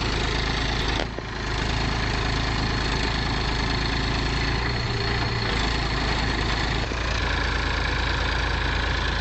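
Heavy equipment diesel engine running steadily, with brief breaks about a second in and near seven seconds.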